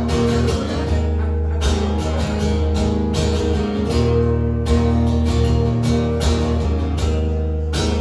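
Live band music, an instrumental intro led by guitar over steady bass notes, with sharp drum or cymbal hits throughout.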